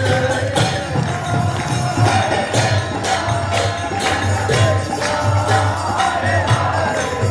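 Devotional kirtan music: hand cymbals jingling on a steady beat about twice a second over a low drum pulse and held sung notes.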